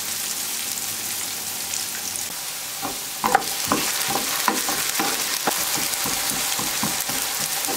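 Diced potatoes sizzling steadily in hot oil in a frying pan. From about three seconds in, a wooden spoon stirs them, with a run of short scrapes and knocks against the pan.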